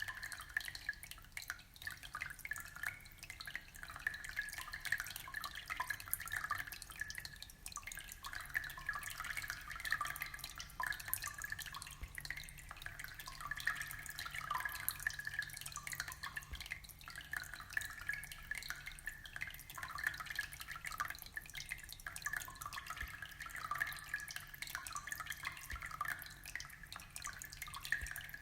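Aquarium water trickling and bubbling steadily: a dense, continuous patter of small drips and pops.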